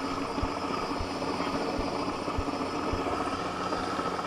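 Helicopter crane running steadily, a constant engine whine over low, regular thumps roughly twice a second.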